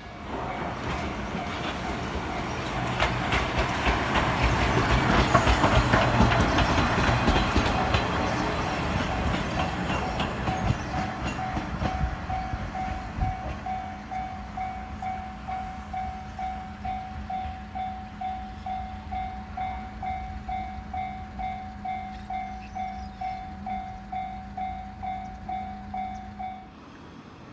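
A train passes with loud rail clatter that swells and then fades. As it fades, a level-crossing alarm bell is heard ringing in a steady rhythm of about two strikes a second; it stops suddenly near the end.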